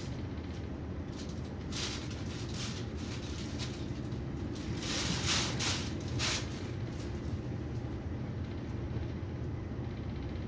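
Railjet passenger train running at speed, heard inside the coach: a steady low rumble of wheels on rails. Hissing swells briefly about two seconds in, and more loudly again around five to six seconds.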